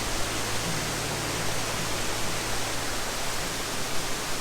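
Waterfall in full flow, gushing: a steady rush of falling water.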